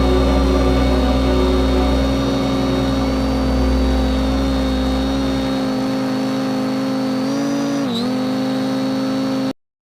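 Quadcopter drone motors and propellers whirring with a steady pitched hum, with wind rumbling on the microphone during the first half. The pitch dips briefly near the end, then the sound cuts off abruptly.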